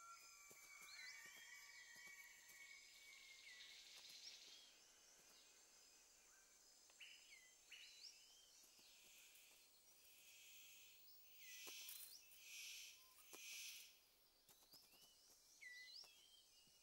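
Quiet tropical rainforest ambience: scattered short bird chirps and whistles over a steady high insect hiss. Three short rustling swishes come close together about twelve to thirteen and a half seconds in.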